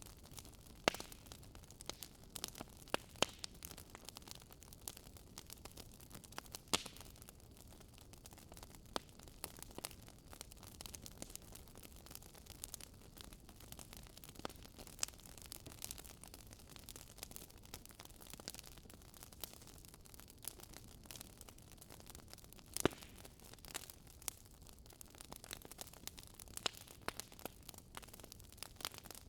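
Campfire burning: burning wood crackling and popping in irregular sharp snaps over a faint steady low hiss, with a few louder pops, one about a second in and one near the middle.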